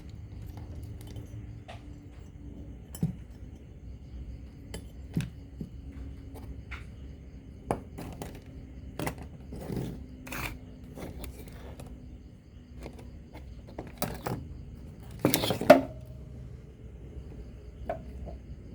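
Scattered clicks and clinks of small hard objects being handled, with a louder cluster of knocks about fifteen seconds in, over a faint steady hum.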